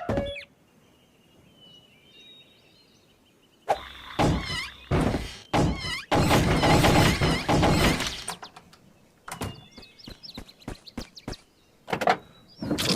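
Cartoon sound effects: after a quiet start with faint high chirps, a run of loud, sudden thunks and noisy bursts, then a string of short clicks and pitch glides.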